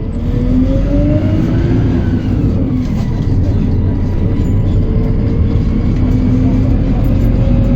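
PAZ-320405-04 (Vector Next) city bus pulling away and accelerating, heard from inside: a low engine rumble with a whine that rises in pitch, drops back about two seconds in, then climbs slowly again.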